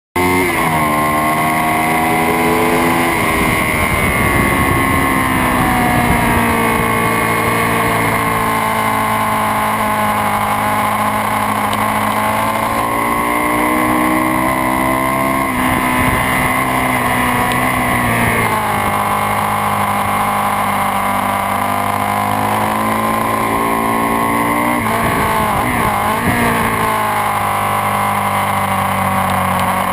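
Sportbike engines running hard, the engine note climbing steadily and dropping back several times as throttle and gears change.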